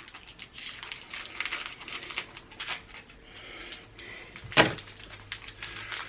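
Trading card wax pack being opened and handled: a crackly paper rustle made of many small clicks, with one louder knock about four and a half seconds in.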